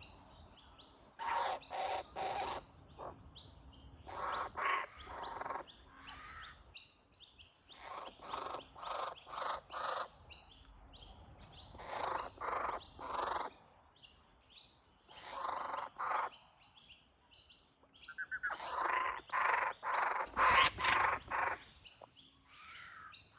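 A bird calling in repeated short bouts of quick, rapid notes, each bout about a second long, with pauses of a few seconds between them.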